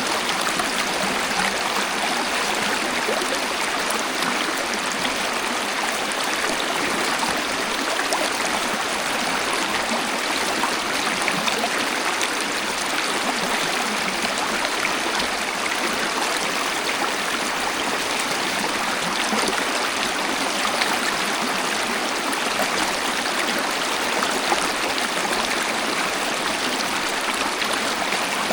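Waterfall running steadily: an even, unbroken hiss of falling and flowing water with little deep rumble.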